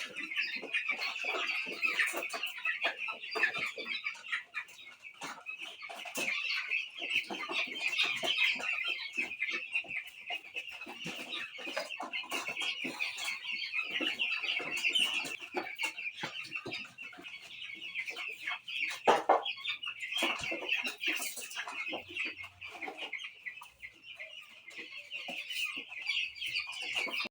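A pen full of 13-day-old chicks peeping without pause, a dense chorus of high cheeps, with scattered small knocks and one louder thump about two-thirds of the way through.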